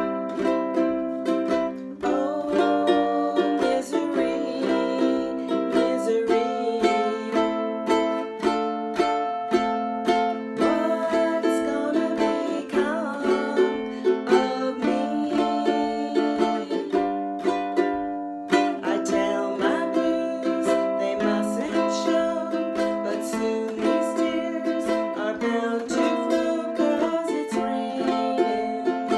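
Ukulele strummed in the island strum, playing a chord progression in the key of C, with an occasional C augmented chord.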